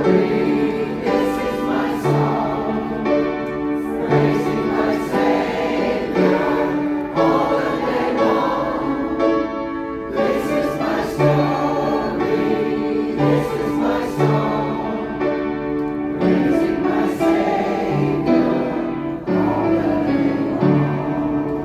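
A choir singing a song together, with a long held chord near the end.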